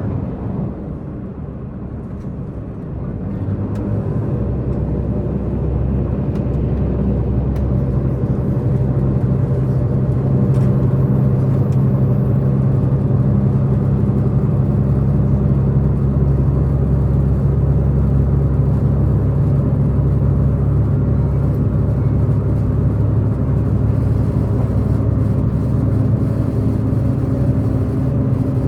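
Diesel engine of a diesel multiple-unit express train heard from inside the passenger car, a steady low drone over rail rumble; it grows louder from about three seconds in and then holds steady.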